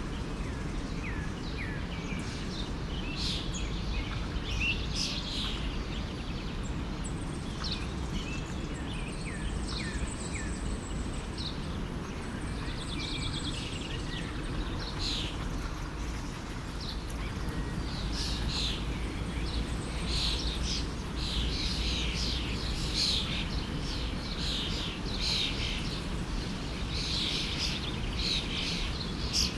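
Several small birds chirping and trilling over the steady rush of a stream; the birdsong gets busier in the second half.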